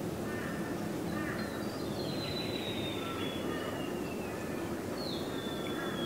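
Wild birds calling over a steady low background rumble: a long, high whistle falling slowly in pitch about two seconds in, a shorter falling whistle near the end, and fainter lower notes around them.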